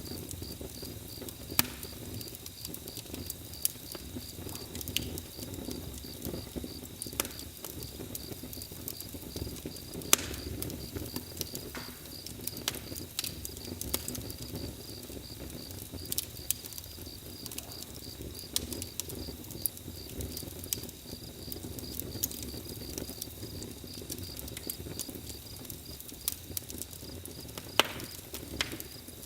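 Campfire crackling, with irregular sharp pops over a low steady rumble, and a cricket chirping in a fast, even pulse.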